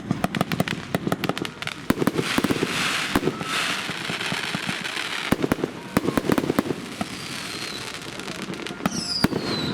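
Fireworks going off: a rapid string of sharp pops and bangs with crackling in between, and near the end two high falling whistles.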